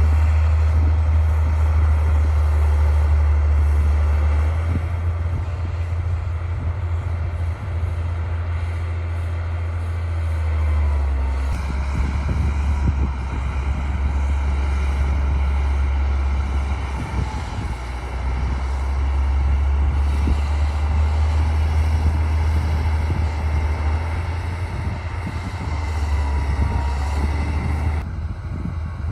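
D60 crawler bulldozer's diesel engine running steadily, with the engine sound swelling and easing several times.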